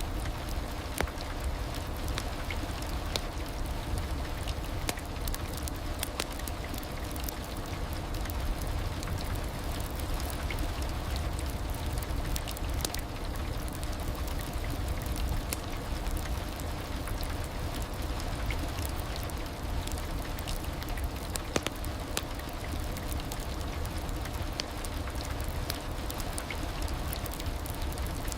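Heavy rain falling steadily: a constant rushing hiss with a deep low rumble and many scattered sharp drop ticks.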